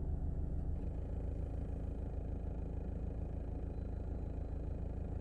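Steady low rumble of a 2020 Škoda Octavia with a DSG gearbox, heard from inside the cabin, with a fast low pulsing running through it.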